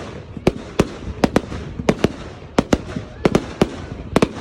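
Aerial fireworks bursting: about a dozen sharp bangs in quick, irregular succession, some in close pairs, over a faint crackle.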